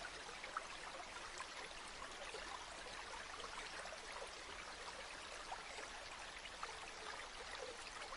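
River water flowing gently, a steady faint rush dotted with small splashes and trickles.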